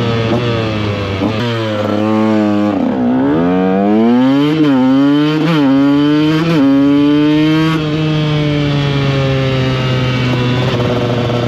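Two-stroke supermoto engine heard onboard, slowing briefly and then accelerating up through the gears: the pitch climbs and drops at three quick upshifts, holds at a steady cruise, then eases off near the end.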